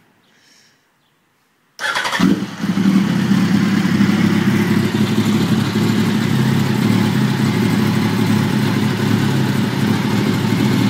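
2004 Yamaha R1's inline four-cylinder engine starting up about two seconds in, then idling steadily through a Two Brothers slip-on exhaust, loud.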